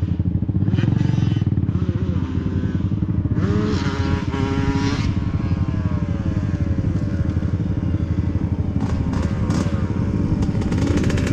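Dirt bike engine running, revved up and back down a couple of times, its pitch rising and falling.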